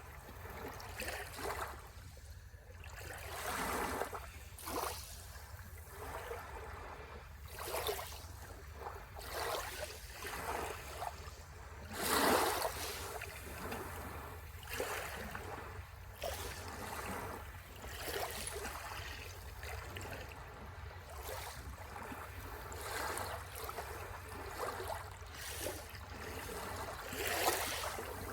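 Sea waves washing on the shore in irregular splashing surges every second or two, the biggest about twelve seconds in, over a steady low rumble.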